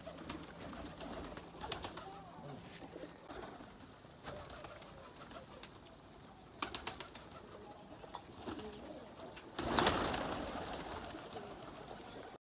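Domestic pigeons cooing, with scattered faint clicks and rustles. About ten seconds in, a sudden louder rush of noise fades away, and the sound cuts off abruptly just before the end.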